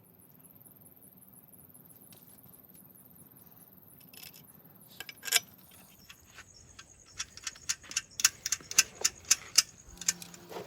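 Metal tools and engine parts clinking: a sharp clink about five seconds in, then a quick run of light metallic taps and clinks near the end.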